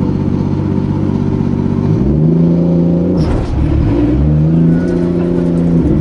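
Turbocharged 2JZ-GTE straight-six in a Nissan 240SX running steadily, then revving up about two seconds in and holding. It drops briefly just after three seconds, then revs up again and holds.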